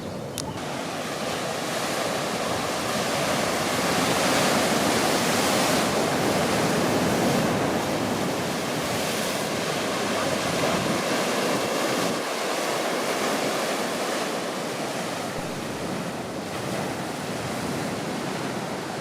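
Ocean surf washing onto the shore: a steady rush that swells louder for a few seconds and then eases again.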